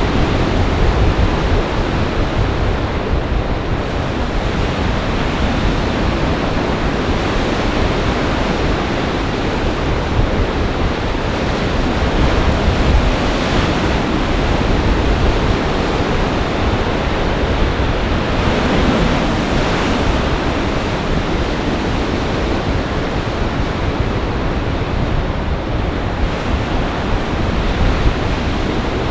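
Storm surf pounding on a large lake in gale-force wind, with wind buffeting the microphone in a heavy low rumble. The noise swells and eases in gusts.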